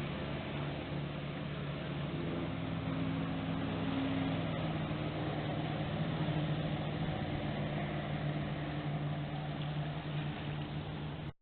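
Motorboat engine running steadily with a low drone that shifts a little in pitch, cut off abruptly near the end.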